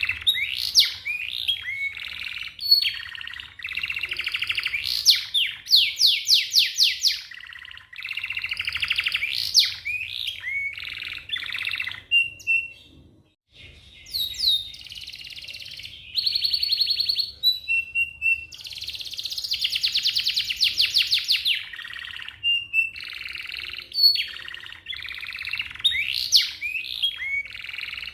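Domestic canary singing a long, fast song: rapid rolling trills of repeated notes, sweeping whistles and short clear tones, with a brief pause a little before the middle.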